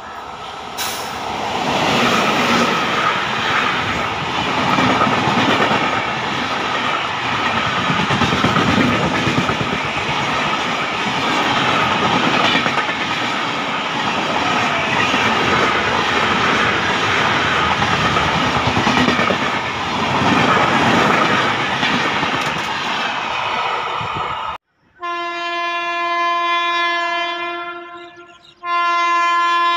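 WAP7 electric locomotive and its LHB coaches passing close at speed: a loud, steady rush of wheels on the rails that lasts over twenty seconds. After a sudden cut near the end, a locomotive horn sounds a long steady multi-tone blast, breaks off briefly, and sounds again.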